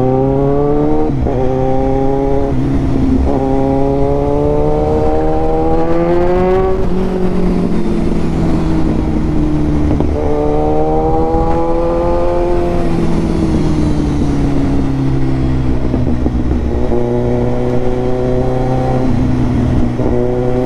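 Kawasaki Ninja 1000's inline-four engine through an Austin Racing full-system exhaust, loud, pulling up through the gears with revs rising in steps and short breaks at each shift, then easing off. It pulls up and falls back once more, then holds fairly steady near the end.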